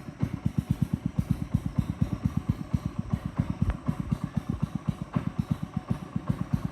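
Boat engine running steadily with an even, low thumping of about seven beats a second.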